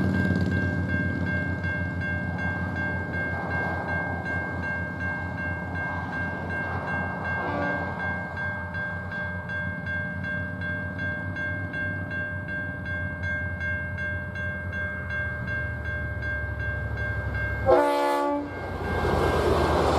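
Safetran Type 3 electronic crossing bell ringing steadily at an active level crossing, over the low rumble of an approaching train. The train gives a faint horn sound about seven seconds in and a loud, short blast near the end.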